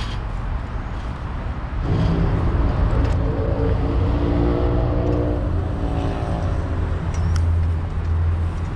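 Car engine running, its low hum coming in about two seconds in and holding for several seconds over a steady low rumble.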